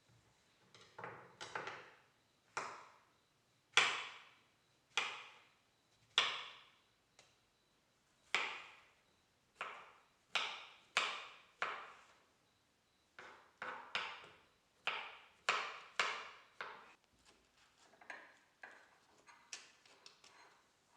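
Knife chopping on a wooden cutting board in separate strokes, about one or two a second and unevenly spaced, each a sharp knock that fades quickly, with a quicker run in the middle.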